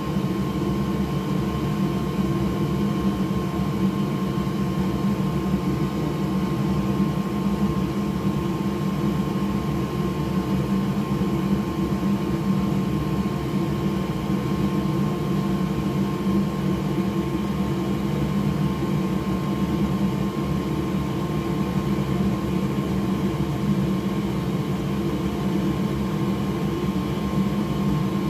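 A small fan or blower whirring steadily, with a thin steady high tone over it and no change in level.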